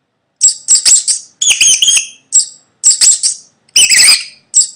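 Mouse squeaking: a string of short, high-pitched squeaks, mostly in pairs.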